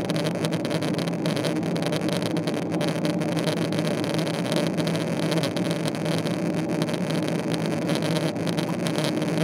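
Steady engine drone and rushing air noise inside the cabin of a Boeing 777-300ER with GE90-115B engines, with a constant low hum and no change in pitch.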